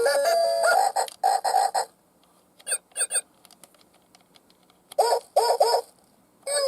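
Electronic tune of stepped notes that stops about two seconds in, followed by short pitched chirping sound effects: two brief ones near the middle, three in quick succession about five seconds in, and one more near the end.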